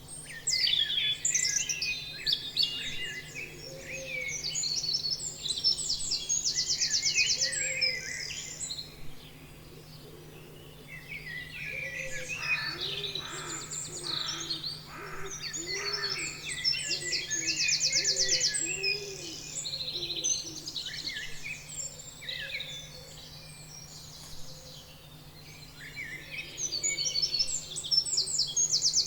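Several songbirds chirping and singing, with quick rapid trills now and then. A series of low, repeated arching notes comes through in the middle, over a faint steady low hum.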